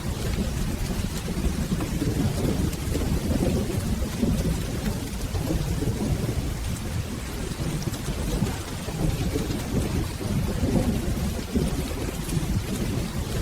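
Steady rain over a continuous low rumble of rolling thunder, with faint scattered ticks on top.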